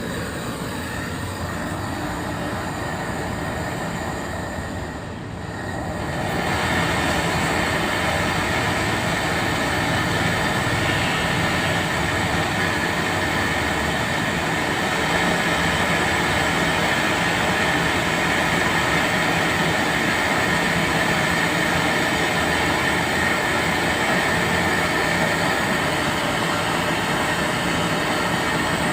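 Steady, loud machine noise, continuous throughout. It dips briefly about five seconds in, then comes back louder with a steady high whine.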